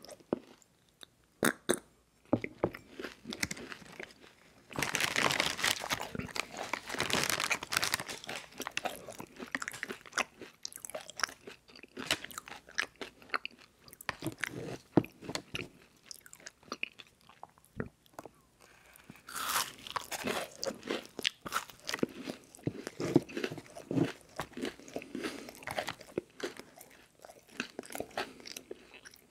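A person biting and chewing crispy rice cereal treat bars close to the microphone: wet, crackling crunches of puffed rice and marshmallow. The crunching is loudest about five seconds in and again near twenty seconds in, with softer chewing between.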